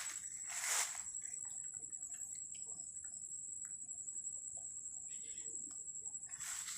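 Insects trilling in a steady high-pitched chorus, with a short burst of noise just under a second in.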